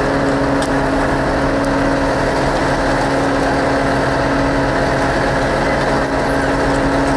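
Bobcat E80 excavator's diesel engine running at a steady speed, an even, unchanging drone with no revving. A brief faint high squeak about six seconds in.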